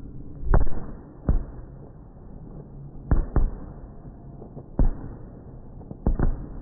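Fireworks shells bursting overhead: a series of about eight sharp bangs over a low rumble, several of them coming in quick pairs.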